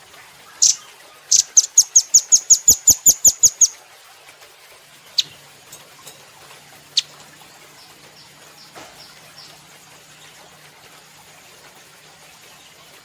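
Velvet-fronted nuthatch calling: a single sharp call, then a fast trill of about fourteen high, clipped notes at about six a second, followed by a few scattered single chips.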